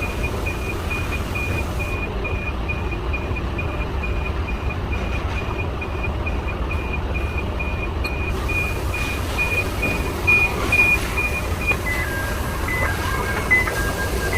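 Forklift reversing alarm beeping evenly at a high pitch over a steady low engine rumble. About twelve seconds in, the beeping changes to a lower pattern that alternates between two pitches.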